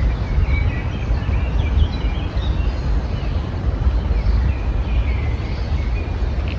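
Small songbirds chirping and twittering in many short, high phrases over a steady low rumble.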